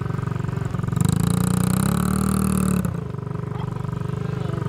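Dirt bike engine running. About a second in the throttle is opened for a louder rev that rises slightly, then it drops back to a steadier, lower run just before the three-second mark.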